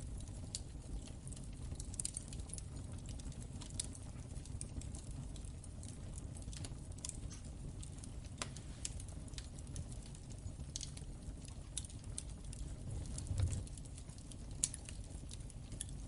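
Wood fire burning in a fireplace: a steady low rumble of the flames with irregular crackles and snaps, a couple of louder pops near the end.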